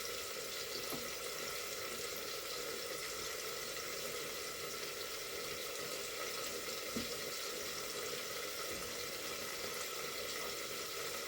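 A steady hiss, with a single light knock about seven seconds in.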